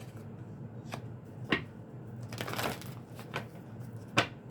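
A deck of reading cards being shuffled and handled: a rustling riffle in the middle with several sharp card snaps and taps, the loudest near the end.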